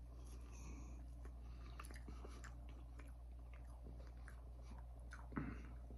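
Faint close-up chewing of a bite of barbecue-sauced meat patty: small scattered mouth clicks, with one slightly louder mouth sound about five seconds in.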